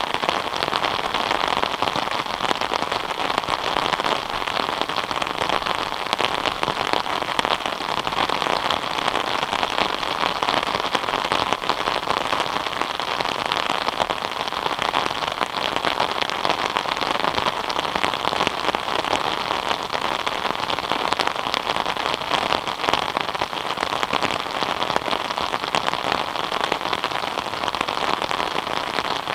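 Steady rain falling, a dense even patter of countless drops striking surfaces.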